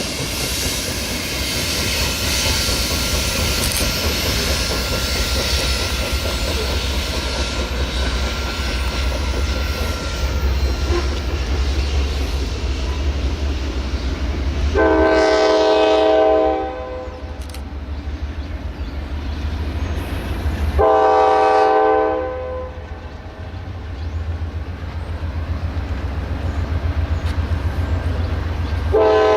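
Norfolk Southern train rolling past with a steady rumble, wheel-on-rail clatter and a thin wheel squeal in the first ten seconds or so. A diesel locomotive's multi-chime horn sounds two blasts of about a second and a half each, around the middle, and starts a third at the very end.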